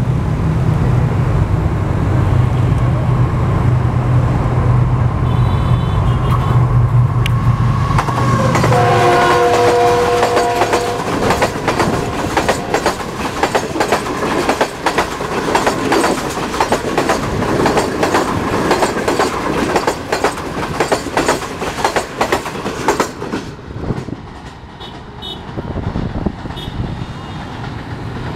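Pakistan Railways GEU-40 diesel-electric locomotive drawing near with a low, steady engine drone, then sounding its multi-tone horn once for about two seconds. Its passenger coaches then rattle past with fast clickety-clack from the wheels over rail joints, which fades near the end as the train goes away.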